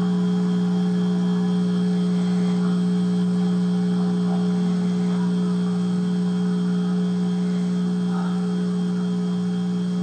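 A steady, loud, unchanging low electrical-sounding hum.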